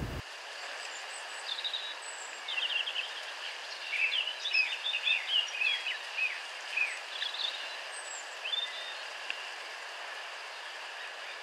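Small birds chirping and twittering over a steady outdoor hiss, the calls busiest through the middle and thinning out toward the end.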